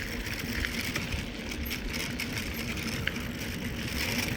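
Riding noise from a mountain bike in motion: a steady low rumble of wind buffeting the handheld phone's microphone and tyres rolling over the trail, with a few faint clicks.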